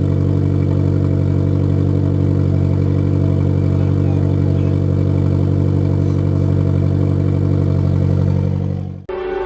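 Nissan Silvia S15 engine idling steadily through a new Blitz Nür Spec 3-inch cat-back exhaust, a deep even drone. It cuts off suddenly near the end and music begins.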